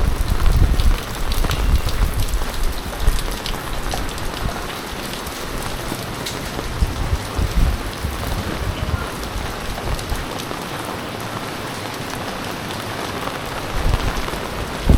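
Heavy typhoon rain falling and splattering on surfaces: a steady hiss dotted with sharp drop ticks, with low rumbles in the first second and again near the end.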